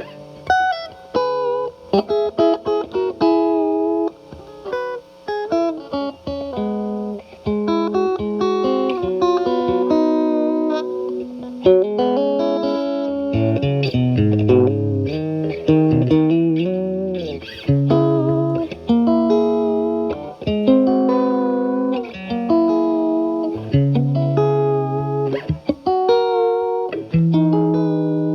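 Stratocaster with single-coil alnico pickups played through a Timmy overdrive pedal set to low gain, into a Marshall Valvestate amp's clean channel: lightly overdriven single notes and chords, with string bends midway through.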